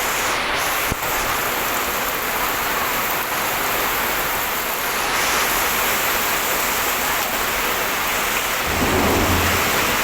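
Heavy rain pouring steadily, with a short low rumble near the end.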